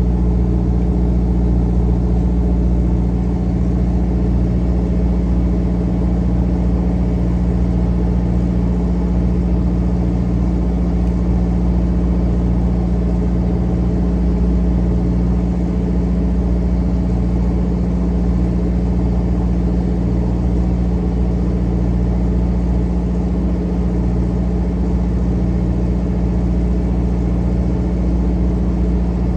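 Fishing boat's engine running steadily at a constant speed, a loud low drone with steady tones that hold their pitch throughout.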